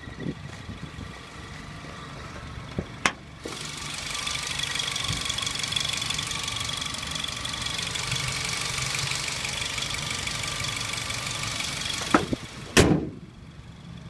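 Nissan Sentra SE-R Spec V's 2.5-litre four-cylinder engine idling with a strange high-pitched chirping, the intermittent idle noise the car makes. The chirping swells about three seconds in and eases off near the end. Two sharp knocks come about twelve seconds in.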